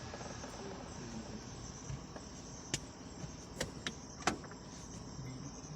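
Insects chirping in a steady high-pitched pulse, with three sharp clicks about halfway through.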